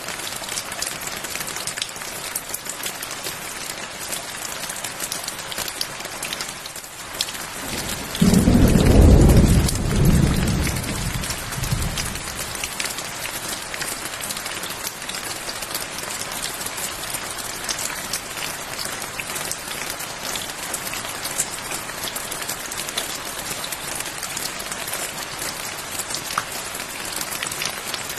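Steady rain pattering down, with a single thunderclap about eight seconds in: a sudden deep rumble that rolls for about four seconds and fades.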